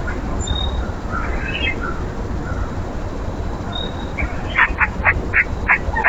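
An animal at the feeder calling: a quick series of short, harsh notes, about four a second, starting about four seconds in, over a steady low rumble.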